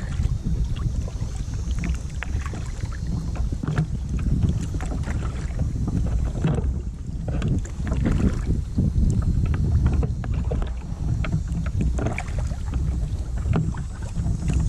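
Kayak being paddled: water splashing off the paddle with scattered small knocks and drips, over a steady low rumble of wind on the microphone.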